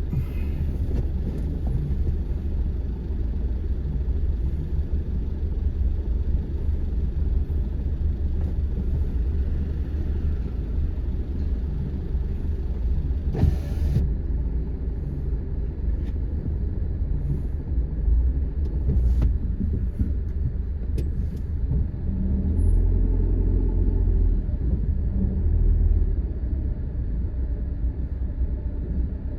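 Car driving on city streets, heard from inside the cabin: a steady low rumble of engine and tyres on the road, growing heavier about three quarters of the way in. A short sharp noise comes about halfway through, and a few faint clicks follow.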